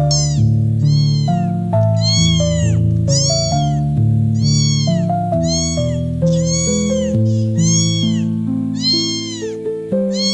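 Kitten meowing again and again, high-pitched meows that each rise and fall in pitch, about one every half second, over background music.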